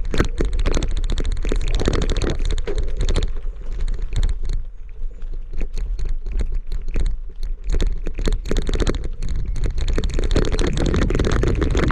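Bicycle ride heard from the rider's own camera: continuous wind rumble on the microphone with dense, irregular rattling clicks from the jolting of the ride.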